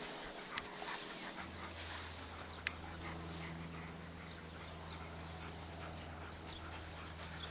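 A dog panting and whimpering, with a few sharp clicks; a steady low hum comes in about a second and a half in.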